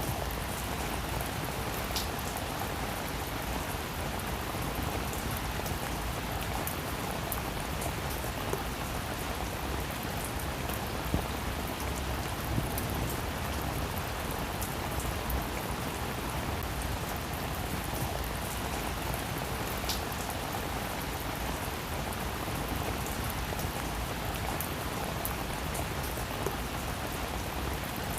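Steady rain falling on a roof, an even hiss with single louder drops ticking now and then.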